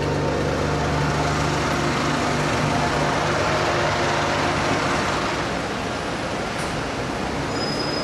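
Ferrari 599 GTB's V12 idling steadily through a loud aftermarket exhaust, giving way about halfway through to a steady wash of city traffic noise.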